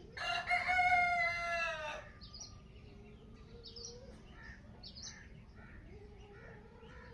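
A rooster crows once, a loud call of nearly two seconds right at the start, followed by faint, scattered chirps of small birds.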